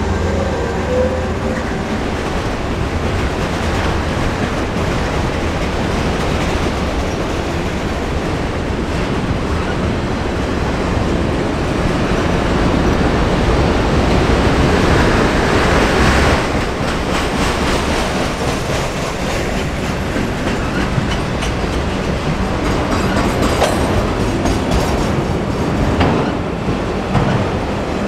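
Freight train of autorack cars rolling past close by: a steady heavy rumble with the wheels clicking over rail joints.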